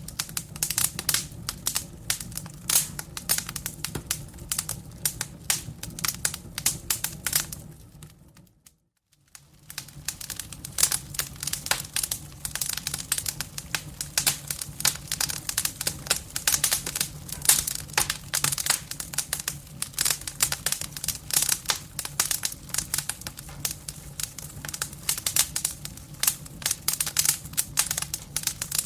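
Wood fire crackling in a fireplace: a dense run of sharp pops and snaps from the burning logs over a low steady hum. The sound fades out briefly about eight seconds in and comes straight back.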